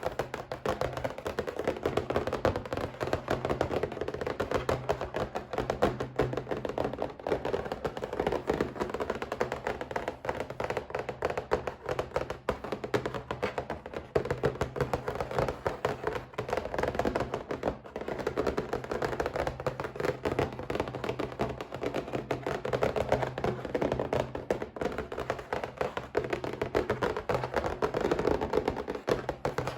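Rapid, continuous tapping on a box, many light taps a second without pause, over a faint steady low hum.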